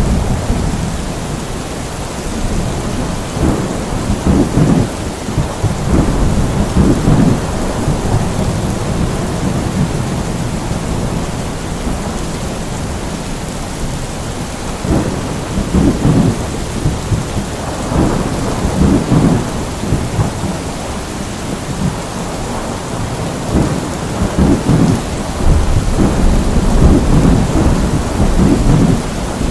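Steady rain with rolling thunder: low rumbles swell and fade about three times over the constant hiss of the rain.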